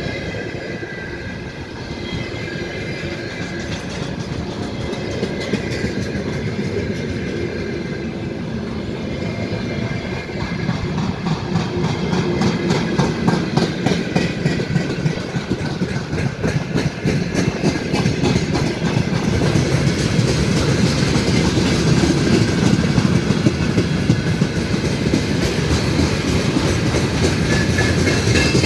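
A train running past, its wheels clacking rapidly and evenly over the rail joints, over a steady rumble that grows louder from about ten seconds in.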